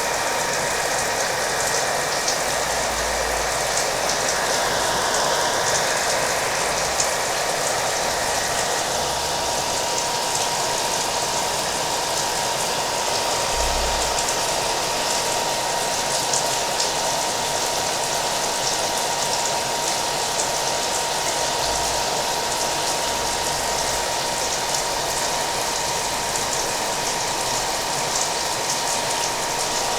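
Hair dryer running steadily, a constant blowing hiss with a thin, unchanging whine, mixed with the sound of rain falling.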